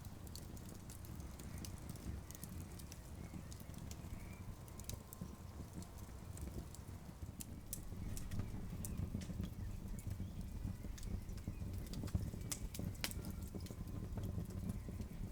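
Campfire crackling: irregular sharp pops and snaps over a low, steady rumble, with a few louder pops near the end.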